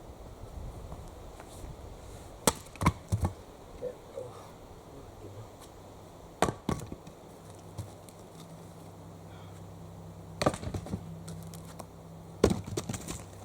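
Axe chopping into a log: four hard strikes spaced about four seconds apart, each followed by one or two quicker knocks of wood.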